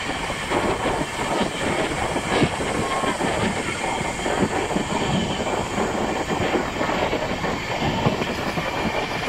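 Passenger train running at speed, heard from an open coach doorway: a steady rush of wheels on rail with a rapid, irregular clatter over the track.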